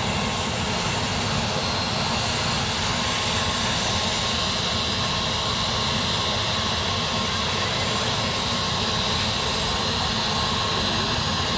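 Medical helicopter's engine and rotor running steadily while it sits on the ground, a continuous even noise.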